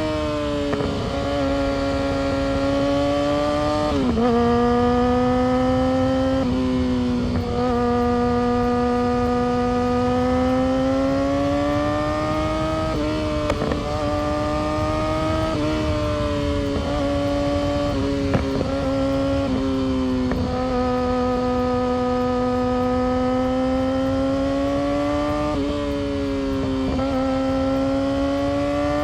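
Yamaha R6's inline-four engine and exhaust pulling under way, a high steady note that climbs slowly through each gear and drops sharply at about seven gear changes, over a low rushing noise.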